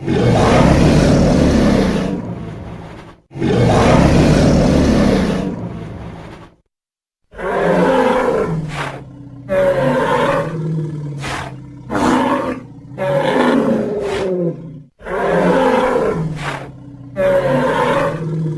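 Dinosaur roar sound effects: two long, rough roars, then after a short silence a run of about six shorter calls that waver up and down in pitch.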